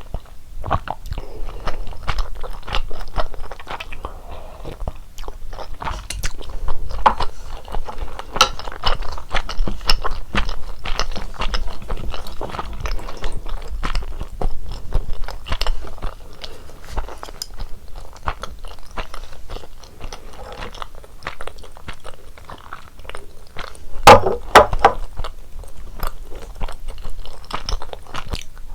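Close-miked chewing and biting of fish cakes from a hot soup, with a steady run of wet mouth clicks and crunches; a louder cluster of sounds comes about 24 seconds in.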